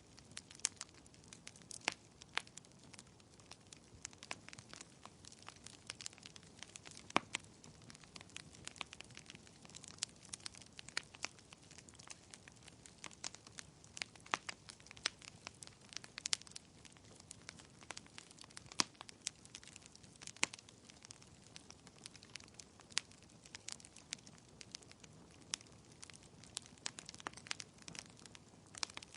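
Wood fire crackling in a fireplace: irregular sharp pops and snaps, several a second, over a soft low hiss of flame.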